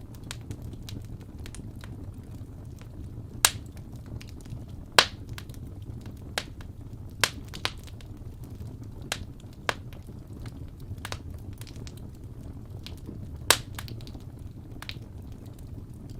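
Wood fire crackling in a fireplace: irregular sharp pops and snaps of burning logs over a steady low rumble of the flames, with a few louder pops.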